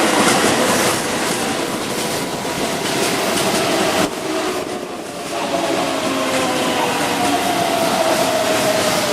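Keihan 9000-series electric train's VVVF inverter motor whine, several tones falling slowly in pitch in the second half as the train slows, over running rumble and wheel clatter. Gusty wind buffets the microphone.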